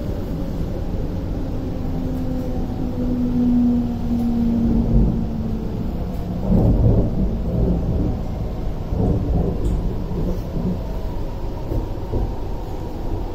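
Cabin noise aboard a Chinese-built MTR Tuen Ma Line C-train braking into a station. A low motor whine drops slightly in pitch and fades out about five seconds in as the train slows to a stop. A low, uneven rumbling follows.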